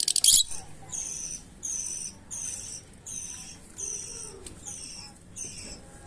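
Fischer's lovebirds calling: a run of about seven short, high-pitched chirps at an even pace, a little more than one a second. It opens with the tail of a brief, loud, rapid rattle.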